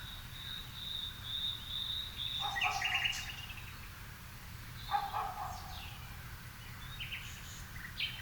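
Garden birds singing in the evening: a thin, high, wavering note held for about two and a half seconds, then bursts of short chirps about two and a half seconds in, again about five seconds in, and several higher chirps near the end. A steady low rumble runs underneath.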